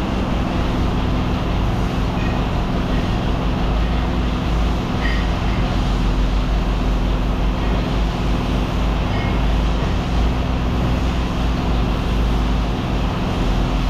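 A vehicle engine running steadily at idle, a low even hum with no change in speed.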